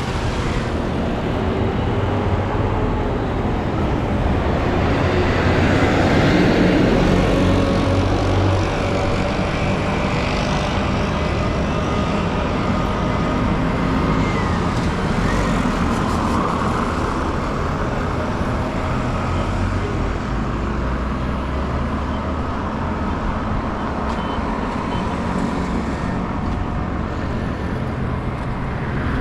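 City street traffic: engines of cars and other vehicles running and passing, loudest about six to seven seconds in.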